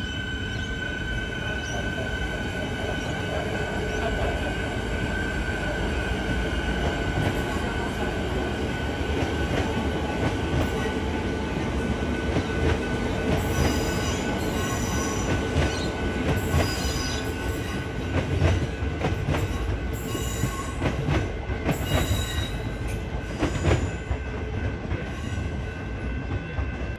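Train running along the tracks with a steady high-pitched wheel squeal over the rumble. From about halfway through, the wheels clatter over rail joints with sharp knocks.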